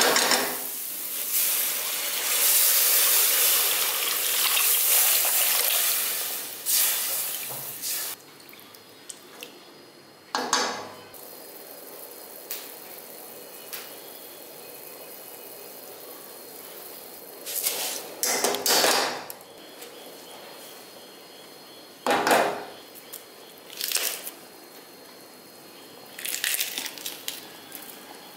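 Ground coriander paste sizzling and being stirred with a spatula in a pressure cooker, a loud steady hiss that stops about eight seconds in. Then a splash as water goes in, and the pot stays fairly quiet, with a few short splashes and clinks as green chillies and curry leaves are dropped into the liquid near the end.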